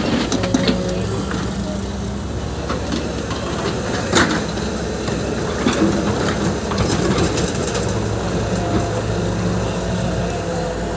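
Diesel engine of a JCB backhoe loader running steadily under working load, its pitch shifting now and then, with a sharp knock about four seconds in.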